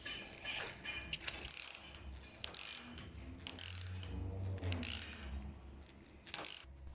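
Ratcheting torque wrench tightening the bolts of a pipe repair clamp, ratcheting in short strokes about once a second.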